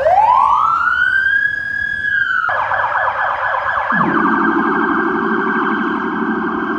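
Police car siren: a wail that rises and holds, switching about two and a half seconds in to a fast warbling yelp, with a second, lower-pitched siren tone joining about four seconds in.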